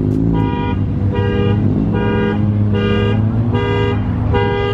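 Car alarm beeping about two and a half times a second, over a car engine idling with a couple of slow revs.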